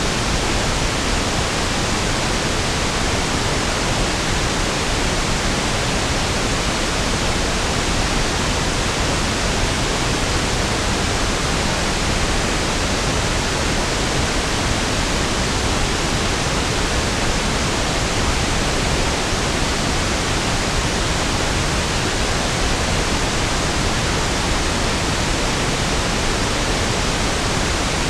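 Steady pink noise (1/f noise): an even, unchanging hiss with equal energy per octave, smoother and deeper than white noise.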